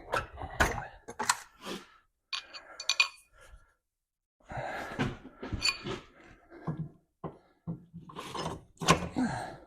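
Metal truck parts and hand tools being handled: irregular knocks and thunks, a brief run of ringing metallic clinks about two and a half seconds in, and stretches of scraping and rustling.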